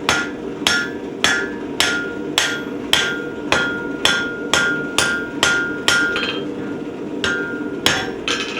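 Hammer blows on hot steel over an anvil, about two a second, each with a bright ring, as the steel is forged; the blows pause briefly about six seconds in, then resume. A steady low hum runs underneath.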